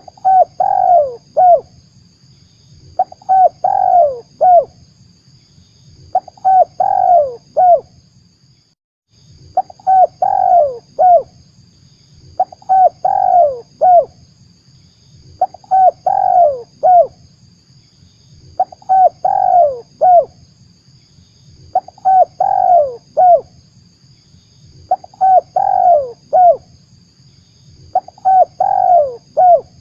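Spotted dove (tekukur) cooing as a lure call for trapping doves: a short phrase of several coos repeats about every three seconds. The sound cuts out briefly just before nine seconds in.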